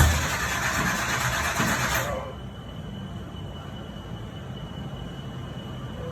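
Supercharged Chevy truck engine being cranked by the starter without catching. The cranking stops abruptly about two seconds in, leaving a low rumble and a faint steady high whine.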